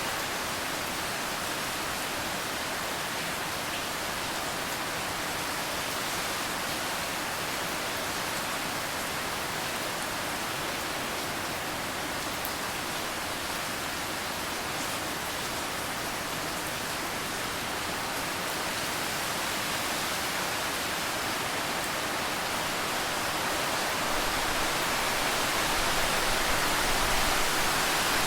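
Steady rain falling, an even continuous hiss, swelling a little louder with a low rumble near the end.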